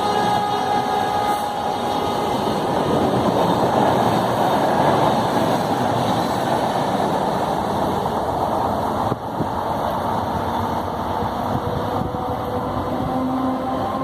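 WDP4-hauled Shatabdi Express passenger train passing at high speed: a steady, loud rush and rumble of wheels on rail. A held tone fades out in the first second and another steady tone comes in near the end.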